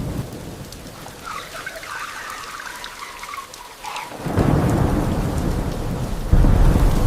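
Rain falling steadily, with a heavy rumble of thunder breaking in about four seconds in and growing louder near the end.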